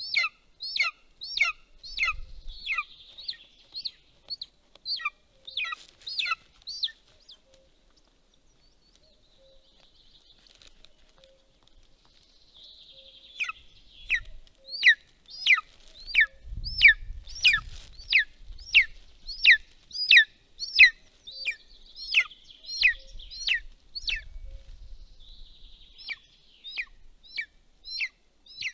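Golden eagle calling at the nest: long series of high, downward-slurred notes at about two to three a second. The calls break off for several seconds, then resume louder, with a few short bursts of low rumble in between.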